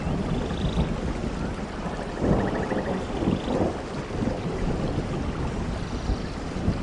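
Steady rainforest rain with a low rumble of thunder that swells about two seconds in. Brief high trilling calls sound over it in the middle.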